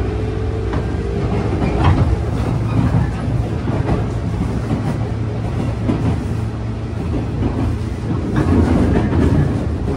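Cabin sound of a JNR 201 series electric commuter train running just after leaving the station: a steady low rumble of motors and running gear, with the wheels clacking over rail joints every second or so.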